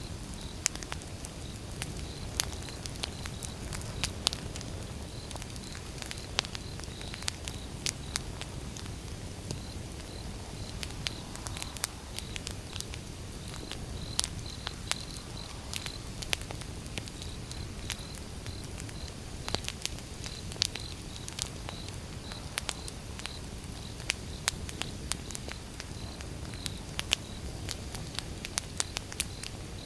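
Firewood burning: irregular sharp crackles and pops over a steady low rush of the fire.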